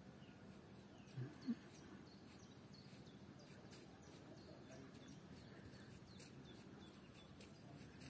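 Quiet outdoor air with small birds chirping faintly: a scattered string of short, high, downward chirps. Two brief low sounds just over a second in are the loudest part.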